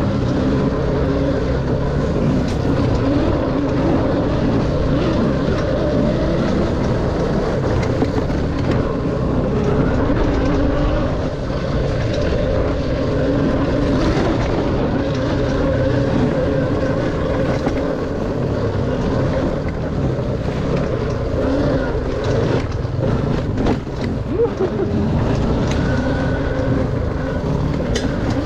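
Dirt bike engine running while riding a trail, its note rising and falling with the throttle, with a brief dip in level about 24 seconds in.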